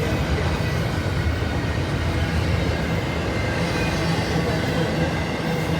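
Train rolling past steadily, its cars running on the rails with a continuous low noise and no break.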